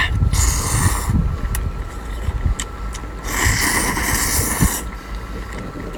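Noodles being slurped: two long slurps, a short one near the start and a longer one around the middle, with a few small clicks, over a low steady rumble.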